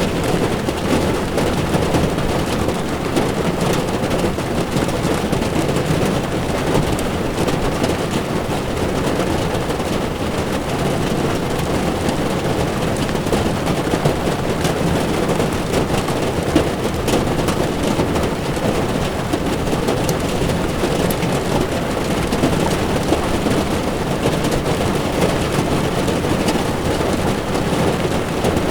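Heavy rain pattering on a car's windshield, with tyres running on a wet road: a steady, dense wash of noise flecked with many small drop ticks.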